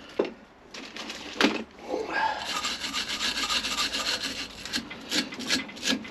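Hand tools scraping and knocking on the outboard's lower-unit water pump housing as it is taken apart: a couple of sharp knocks, then a stretch of steady scraping, then a run of quick rubbing strokes near the end.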